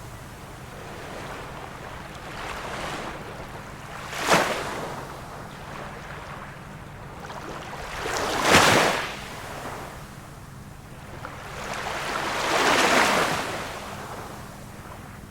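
Small waves of a calm sea washing in and breaking, about four surges: a sharp splash about four seconds in, the loudest wash a little past halfway, and a broader, slower wash near the end.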